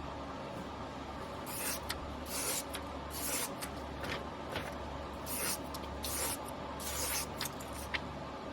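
Carbon-steel (white #2) yanagiba blade stroked by hand across a whetstone: about six scraping strokes, roughly one a second, starting about a second and a half in, with a few light ticks between them, over a steady low hum.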